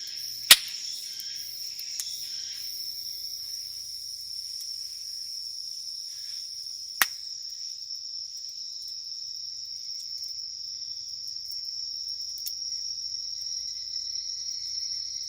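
A steady chorus of singing insects, one continuous high trill. Over it, the wood campfire gives a few sharp pops: the loudest about half a second in, another about seven seconds in, and fainter ones between.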